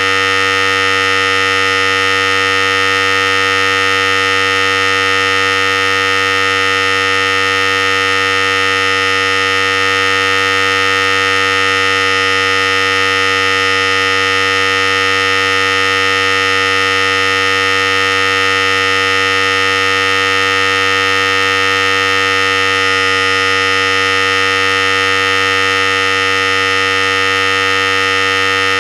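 Philips Series 5000 hair clipper running continuously with a steady, even buzz that does not change.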